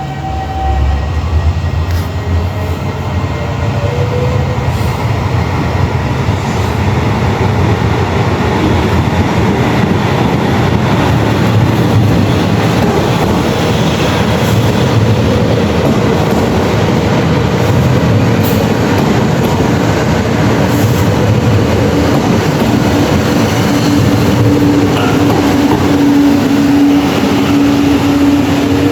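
Electric multiple-unit train running through the station with a loud, steady rumble of wheels on rails. A motor tone glides upward in pitch a few seconds in, and a steady low hum sets in about two-thirds of the way through.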